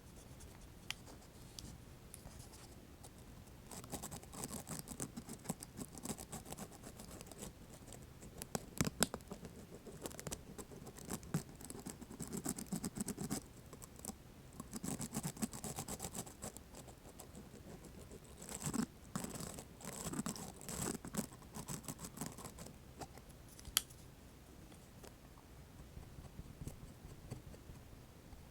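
LED earpick scratching and clicking in close-up, in bunches of fine, crackly strokes, ending with a single sharp click.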